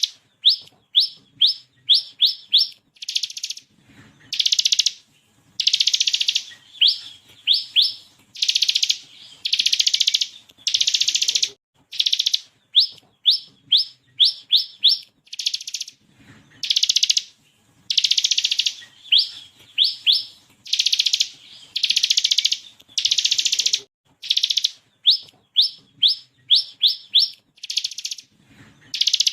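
Bar-winged prinia (ciblek kristal) singing continuously: long rapid buzzing rattles alternating with quick runs of three to six sharp rising whistled notes, repeated over and over.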